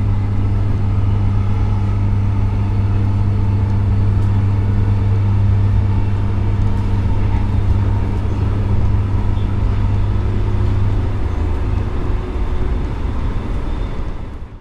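A motor vehicle's engine idling close by: a steady low hum with a steady drone of overtones above it. The low hum drops away about eleven seconds in, and the sound fades out at the very end.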